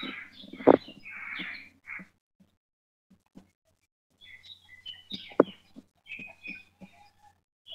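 Small birds chirping in short, scattered calls, broken by a few sharp clicks over a faint low hum.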